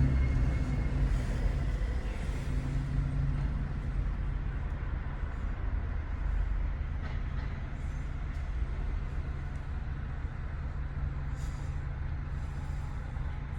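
2019 Toyota Tacoma TRD Pro's 3.5-litre V6 through an MBRP 3-inch cat-back exhaust, a steady low exhaust drone while driving. It eases down in loudness over the first few seconds as the truck comes off the throttle, then settles.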